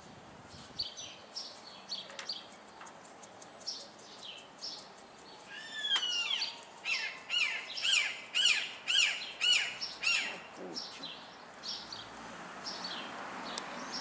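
Wild birds calling: short high chirps scattered throughout, and from about six seconds in a louder run of repeated arched notes, about two a second, lasting some four seconds.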